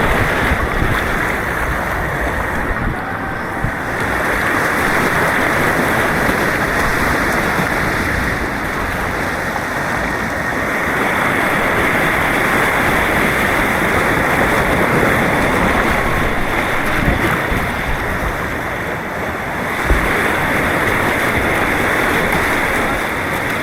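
Rushing white water of an artificial white-water course heard from a kayak, a steady loud rush, with a few brief knocks.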